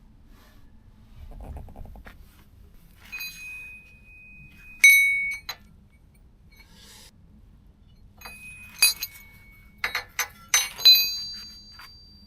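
Steel hand tools clinking against each other and the suspension's metal parts, several sharp strikes that ring on briefly with a bell-like tone. The loudest come about five seconds in and in a cluster near the end.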